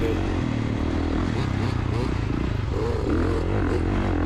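KTM two-stroke dirt bike engine running under a rider, its pitch rising and falling as the throttle is worked, with steady noise behind it.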